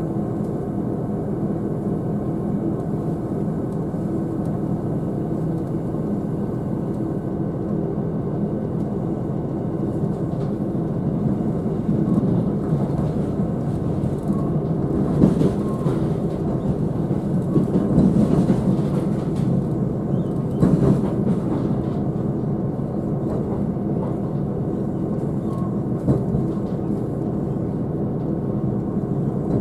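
Interior running noise of a diesel passenger train on the move: a steady rumble of wheels on rail and the engine. It grows louder in the middle, with a few sharp knocks from the running gear.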